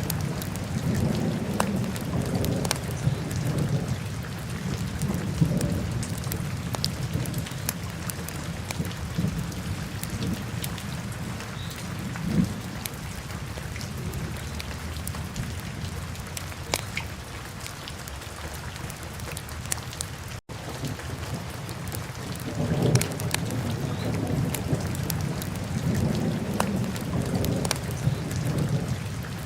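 Wood fire burning in a fireplace: steady low rumble of the flames that swells and eases, with scattered sharp crackles and pops. About 20 seconds in the sound cuts out for an instant.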